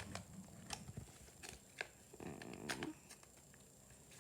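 Faint scattered clicks and taps of plastic toy pieces being handled, with a brief low murmur about two seconds in.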